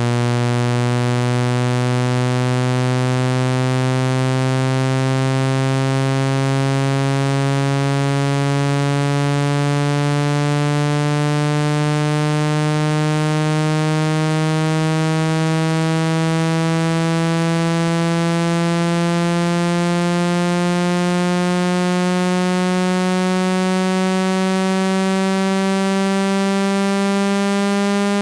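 A low, buzzy electronic tone played to expel water from a phone speaker, gliding slowly and steadily upward in pitch at a constant level. The vibration is meant to shake trapped water out of a wet iPhone speaker.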